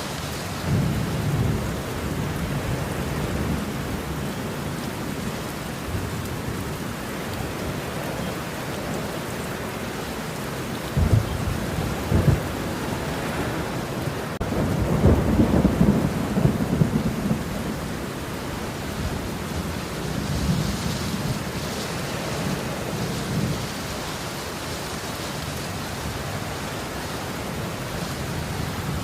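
Steady heavy rain with rolling thunder: low rumbles swell and fade throughout, with two sharp cracks about eleven and twelve seconds in and a louder, longer rumble around the middle.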